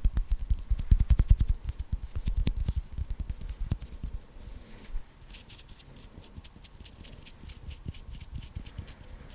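Fast ASMR hand sounds close to the microphone: rapid pats and taps with heavy low thumps for about four seconds, then a quieter, fine crackling of fluttering fingers.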